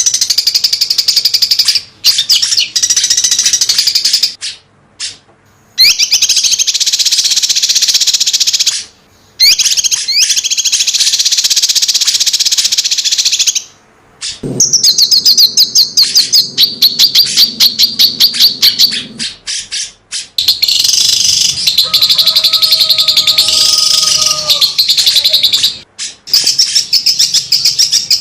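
A cucak cungkok, a small songbird, singing its fast 'tembakan' volley song: tightly packed, rapidly repeated high chirps in rattling bursts a few seconds long, broken by short pauses.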